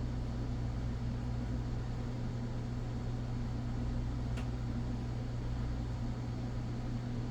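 Steady low hum with background hiss, and a single faint click about four seconds in.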